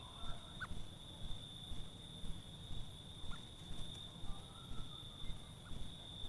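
Night-time insect, likely a cricket, singing one continuous high-pitched tone, with a few faint short chirps and a soft low rumble pulsing about once or twice a second.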